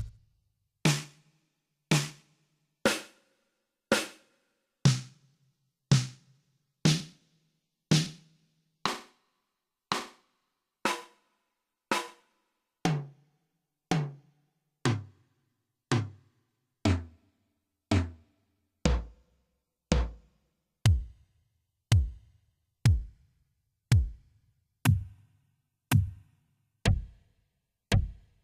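Electronic drum sounds from a Yamaha PTX8 percussion pad, one single hit about every second. The hits are tom-like at first and become deeper bass-drum thumps about halfway through.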